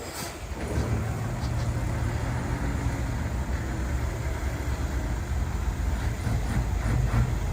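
Heavy diesel engine of earthmoving machinery running steadily with a low drone, coming up about a second in.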